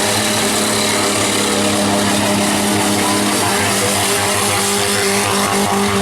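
Several compact truck and van engines running at once in a demolition derby, each holding a fairly steady note, with the tones overlapping.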